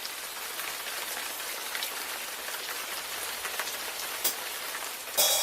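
Steady rain falling on a hard surface, with separate drops ticking now and then. Near the end a sudden bright crash comes in as music starts.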